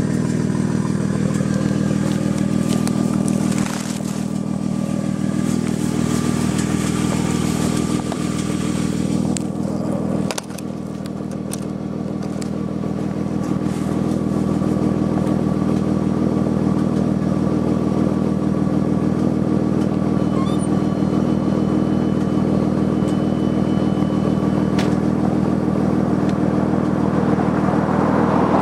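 2000 Audi S4's 2.7-litre twin-turbo V6 running steadily at idle through a custom 3-inch resonated exhaust, with a brief dip in level about ten seconds in.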